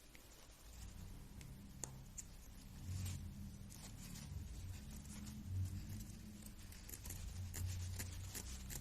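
Small plastic-geared differential of an SG-1603 1/16 RC drift car being turned by hand, giving a low, uneven grinding rumble with a few small clicks. It sounds rough.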